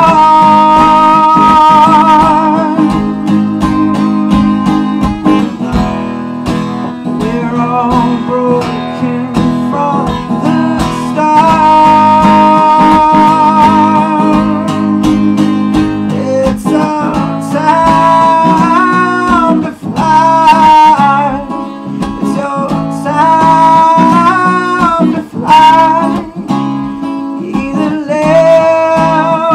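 Acoustic guitar strummed in steady chords, with a held, wavering melody line ringing above them.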